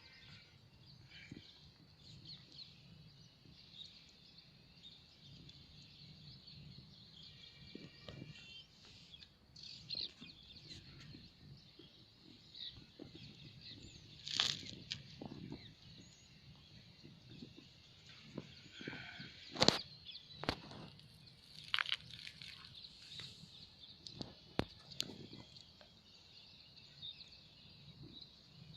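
Faint outdoor ambience with scattered bird calls and clucks over a steady high hiss, broken by a few sharp clicks, the loudest about halfway through.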